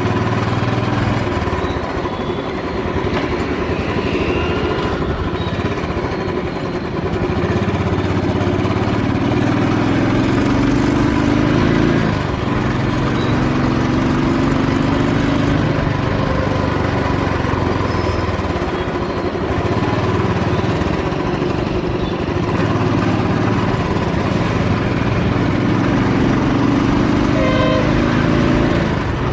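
Royal Enfield motorcycle engine running under way, its pitch climbing as it pulls through each gear and dropping back at the gear changes, about twelve seconds in and near the end.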